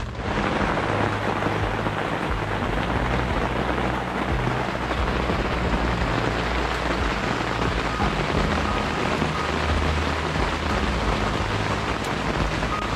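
Heavy rain falling steadily, a dense hiss with a low rumble underneath.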